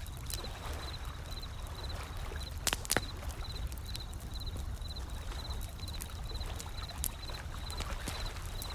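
Wood fire crackling with sharp pops, the loudest a pair about three seconds in, over a low steady rumble of ocean waves. A high chirp repeats about twice a second throughout.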